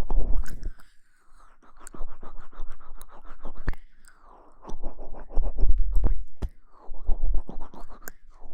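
Close-miked ASMR scratching and rustling on the microphone, coming in about four bursts of a second or two with short pauses between them.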